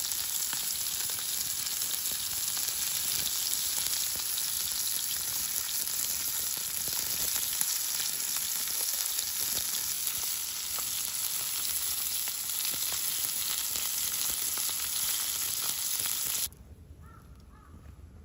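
Steak sizzling over a campfire: a dense, steady sizzle with small crackles, cutting off suddenly near the end.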